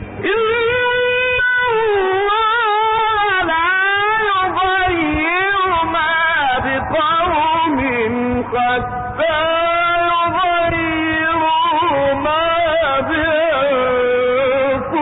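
A man's voice chanting the Quran in melodic tajweed style, drawing out long ornamented notes that bend up and down with short breaks between phrases. The recording is old and muffled, with nothing above about 4 kHz.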